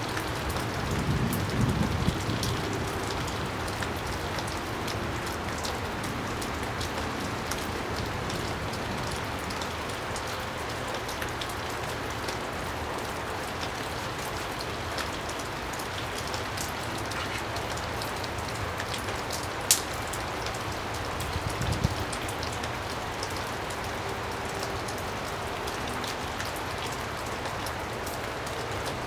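Steady rain falling on a surface, with a few scattered sharp knocks and clicks, the loudest about twenty seconds in.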